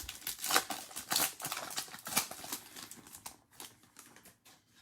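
Quick, irregular clicks and taps of trading cards being handled and flipped against each other and the table. The clicks thin out after about three seconds.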